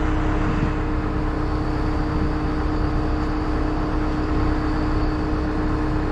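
Engine of a lifting machine, likely a crane or boom truck, running steadily: a constant drone with a held hum.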